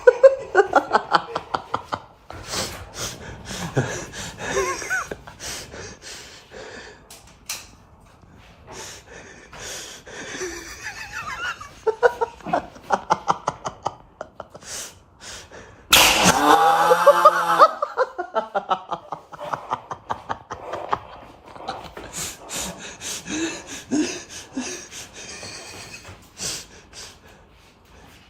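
People laughing in short bursts, with many sharp clicks scattered through. About halfway through comes a loud, pitched cry lasting about a second and a half, the loudest sound here.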